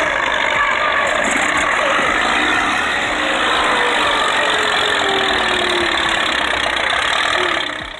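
Loud, steady engine noise from competition pulling tractors running hard under load, with a faint note that slowly falls in pitch in places.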